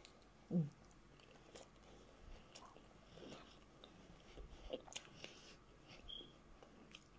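Faint chewing and mouth sounds of someone eating prawns and rice, with scattered soft clicks. A brief low voice sound about half a second in.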